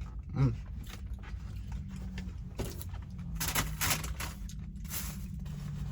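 Steady low hum of an idling semi-truck heard inside the cab, with a brief low grunt-like sound about half a second in and several short scraping, rustling noises in the middle.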